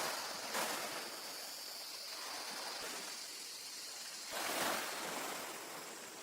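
Ocean waves washing onto a beach, the surf swelling twice, with a steady high hiss above it.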